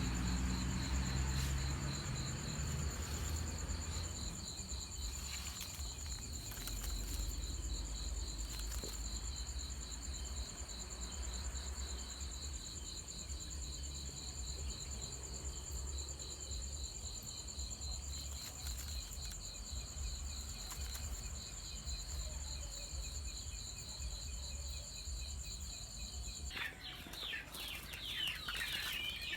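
Insects trilling steadily in a high, pulsing drone that cuts off suddenly near the end, followed by rapid bird chirping. A low rumble runs underneath.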